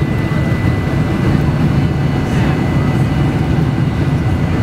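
Steady cabin noise inside a Boeing 747-400: a low, even rumble of engines and airflow with a thin, steady high whine over it.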